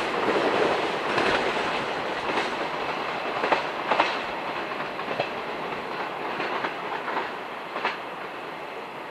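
DF200-hauled freight train running away into the distance: its wagon wheels rumble and click over the rail joints, the sound fading steadily.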